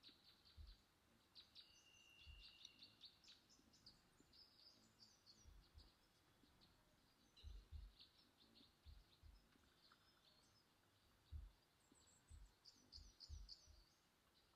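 Near silence: faint, high bird chirps in the background, with a few soft low thumps scattered through.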